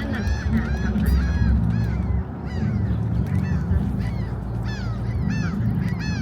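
A flock of birds calling over and over, short arching honk-like calls overlapping about two a second, over a steady low rumble.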